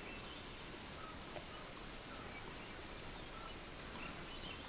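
Faint outdoor ambience: a steady hiss with a few short, faint bird chirps scattered through, and a single faint click about a second and a half in.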